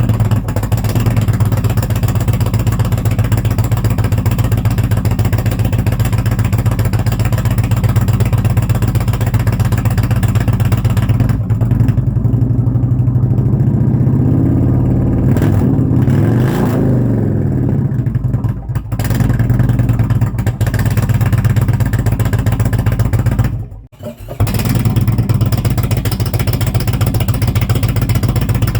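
2019 Indian Roadmaster's Thunder Stroke 111 V-twin running through Tab Performance Zombie baffles and aftermarket exhaust tips, with a steady loping idle. About halfway through the engine is revved up and back down once. There is a brief break in the sound a little past three-quarters of the way.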